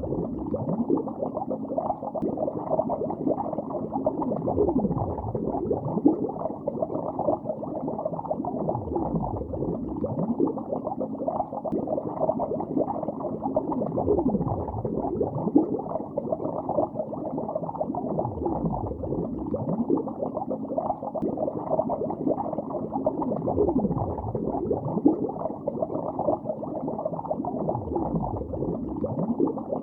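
Bubbles rising underwater in a lake: a dense, muffled bubbling and gurgling made of many short gliding pops, swelling deeper about every five seconds.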